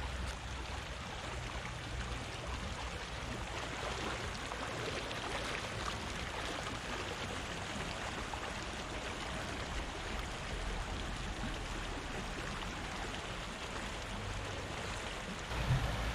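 Fast-flowing river water rushing steadily, with a low rumble at the start and again near the end.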